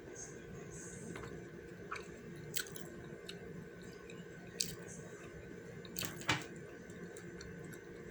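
A person chewing food close to the microphone, with a few sharp clicks in between, over a steady background hum.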